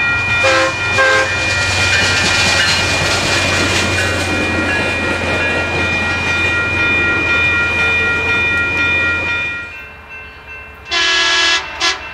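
Utah FrontRunner commuter train passing close by: diesel locomotive and bilevel coaches running with a steady low hum and steady high ringing tones, with two short horn toots about a second in. After it fades about ten seconds in, an approaching train sounds its horn in one blast of about half a second and a brief second one near the end.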